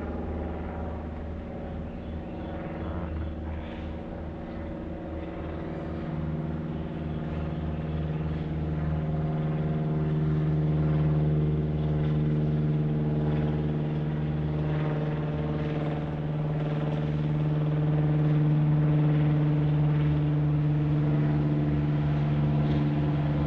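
Car engine and road noise heard from inside the cabin while driving, a steady drone that grows louder about six seconds in and then holds.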